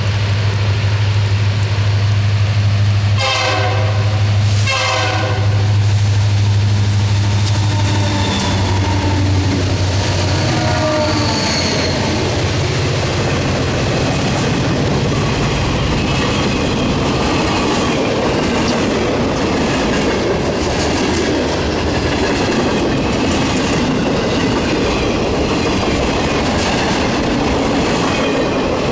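Three EMD SD40-2 diesel locomotives, each with a 16-cylinder two-stroke engine, pass with a steady low engine drone. Two short horn blasts sound about three and five seconds in. After about ten seconds the drone gives way to freight cars rolling by, wheels clicking over the rail joints.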